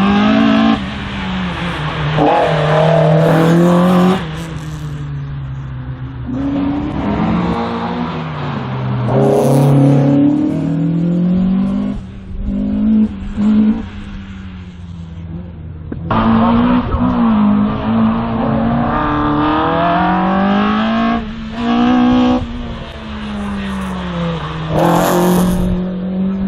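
Race car engine at full throttle through a slalom course, revving up and dropping back again and again as the driver accelerates, lifts off and shifts between the cones.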